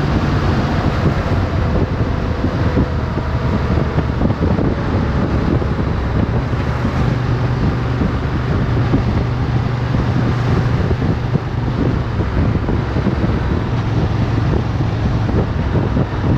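Motorcycle engine running under way at a steady speed, heard under heavy wind rush on the onboard microphone.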